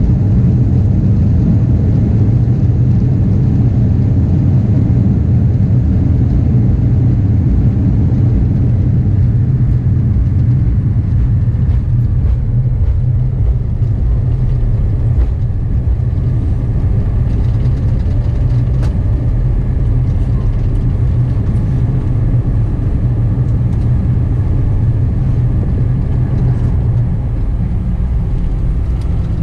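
Steady low rumble of engine and airflow noise inside the cabin of a four-engined Airbus A340-300 arriving into Paris. It eases a little partway through and drops again near the end.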